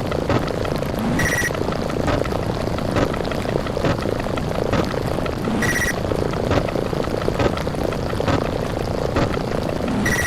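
A continuous rumbling din of counting sound effects repeating too fast to tell apart, dotted with quick clicks. A short, high beep comes about every four and a half seconds: once near the start, once in the middle, and once at the end.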